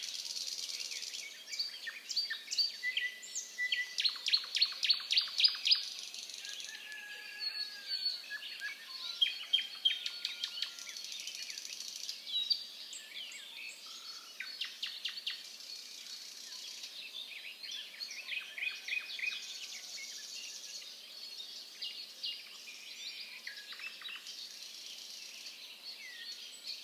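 Forest birds chirping and trilling, several calling over one another, with quick runs of rapidly repeated notes around 4–6 seconds in and again later.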